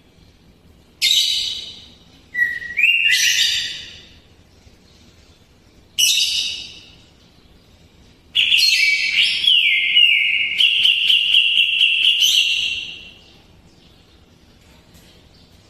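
Green leafbird (cucak ijo) singing in loud bursts: three short whistled phrases, then a longer run of rapid repeated notes about eight seconds in, its song filled with mimicked kapas tembak phrases.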